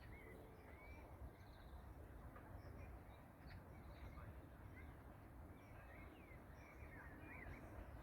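Near silence with faint birdsong: scattered short chirps over a low background rumble.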